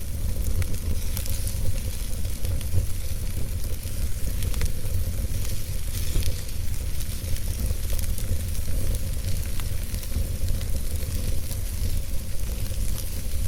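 Wood fire burning in a fireplace: a steady low rumble and hiss of flame with frequent small crackles and pops throughout.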